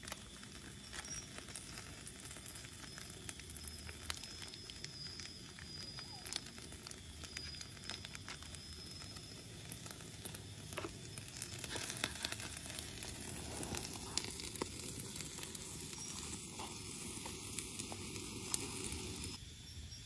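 A fire crackling and sizzling, with scattered sharp crackles, getting somewhat louder about twelve seconds in.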